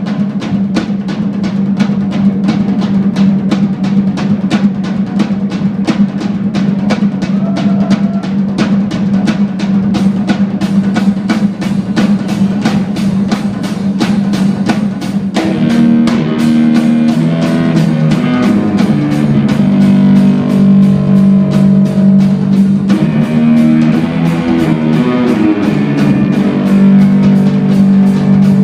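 Instrumental rock band playing live: fast, busy drumming over a held low bass note. About halfway through a fuller part with moving melodic lines comes in and the bass line starts to move.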